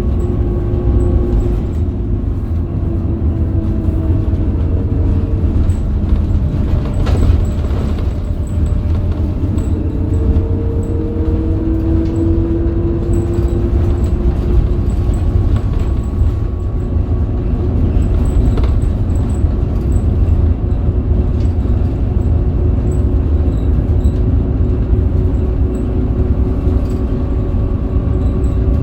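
Scania K270UB bus under way, its Scania DC9 270 hp diesel and ZF Ecomat automatic gearbox running over a heavy low road rumble. A whine rises and falls in pitch several times as the bus speeds up and slows, with a few faint knocks and rattles.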